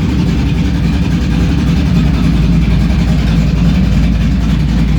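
Modified Chevrolet 5.3 V8 in a 1986 Chevy C10 pickup idling, loud and steady.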